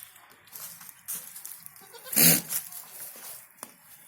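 A goat bleats once, short and loud, about two seconds in.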